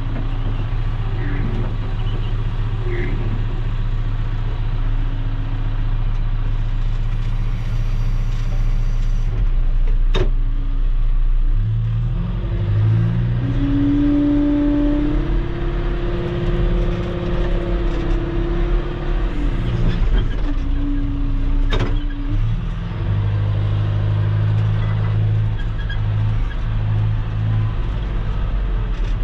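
Heavy equipment engine running steadily, working harder with a higher whine between about 12 and 23 seconds in. There are two sharp knocks, about 10 and 22 seconds in.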